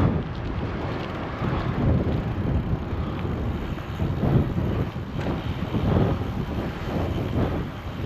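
Wind buffeting the microphone of a GoPro on a moving bicycle: an uneven, gusty low rumble with road noise underneath.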